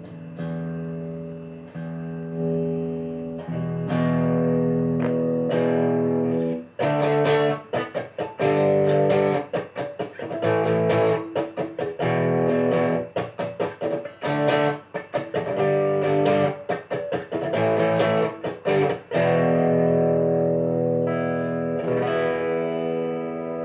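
Electric guitar played through a Marshall AVT50 amplifier and effect pedals. It opens with a few held chords, then about seven seconds in moves to fast, choppy strumming with short muted gaps, and near the end settles on a chord left to ring.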